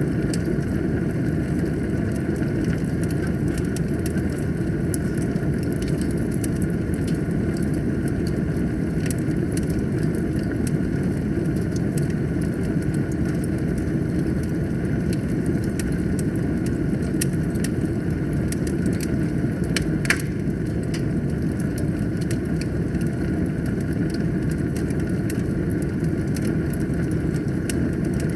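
Fire burning in a fireplace: a steady low rush of flames with frequent small crackles, and one louder pop about twenty seconds in.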